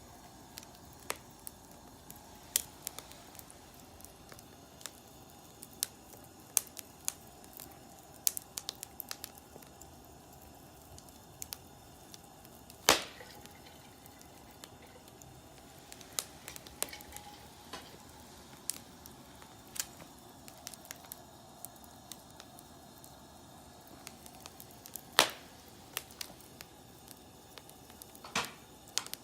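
Wood fire crackling: irregular sharp snaps and pops over a low steady hiss, with two louder pops, one near the middle and one near the end.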